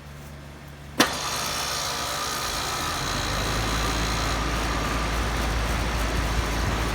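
Lennox T-class heat pump outdoor unit starting up in cooling mode: a sharp click about a second in as it kicks on, then a steady rush of running noise, with a low hum building a couple of seconds later as it comes up to speed.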